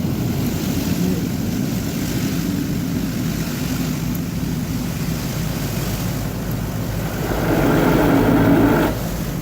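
Touchless spray car wash running over the car, heard from inside it: a steady rush of water spray and machinery over a low hum. It grows louder for about two seconds near the end.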